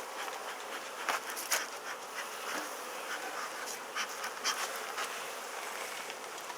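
Honeybees buzzing steadily in an opened hive, with a few short sharp clicks or knocks about one, one and a half, four and four and a half seconds in.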